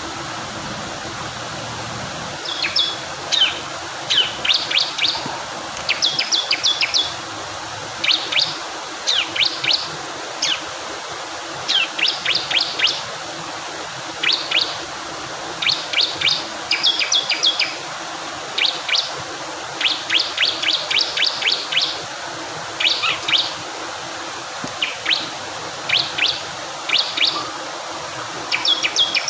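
Bar-winged prinia (ciblek kristal) singing in repeated quick bursts of short, high chirps, a burst every second or two, over a steady rush of fast-flowing water.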